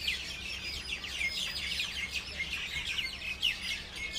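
Many birds chirping at once: a dense chorus of short, high, quick chirps overlapping without pause.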